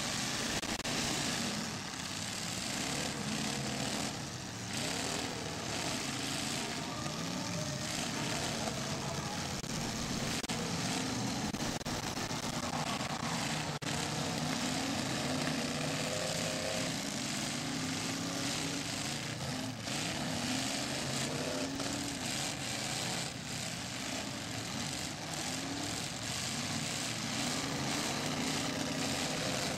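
Several demolition derby cars' engines running and revving at once, their pitch rising and falling, with a few sharp knocks from cars colliding.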